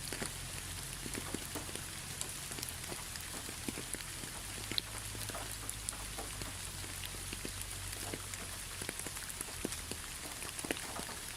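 Steady rain with many separate drops pattering and ticking on a surface, over a low steady rumble.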